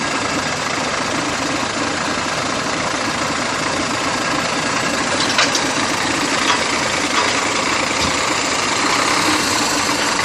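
Scania truck's diesel engine running steadily at idle, with a few sharp clicks midway.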